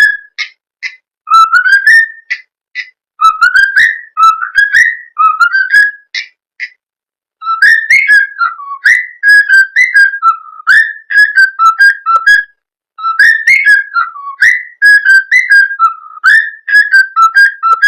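Cockatiel whistling its song: quick runs of short whistled notes, many sliding upward in pitch, in phrases broken by brief pauses.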